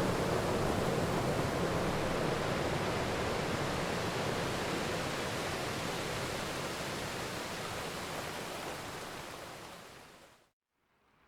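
Steady heavy rain, a dense even hiss, slowly fading and dropping away to a moment of silence about ten seconds in, after which fainter rain begins to come back up.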